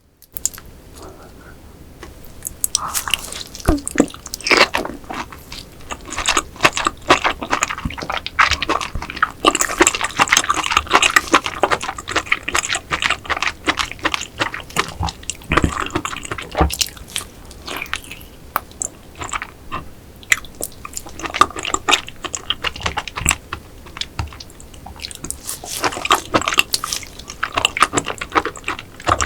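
Close-miked wet chewing and crunching of raw rock oyster and salad: dense, irregular squelching and crackling bites that start suddenly just after the beginning, with brief pauses.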